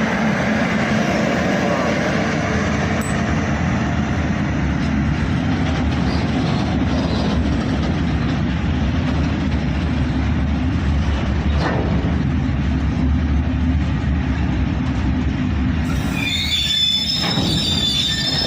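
Loaded coal freight train rolling on the rails with a steady, loud rumble. A high metallic squeal of several tones sets in near the end.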